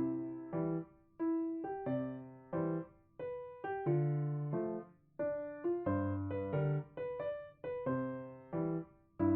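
Background piano music: a gentle melody of single sustained notes over low bass notes, each note decaying before the next.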